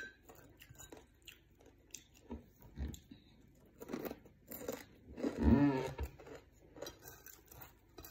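Close-up chewing and crunching of fried anchovies and rice, with scattered mouth clicks and smacks. About five and a half seconds in there is a brief closed-mouth hum.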